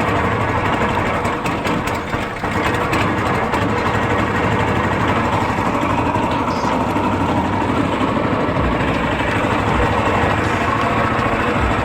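Predator 224cc single-cylinder four-stroke engine on a homemade longtail mud motor, running steadily under throttle and pushing a small jon boat along. The level dips briefly about two seconds in, then holds steady.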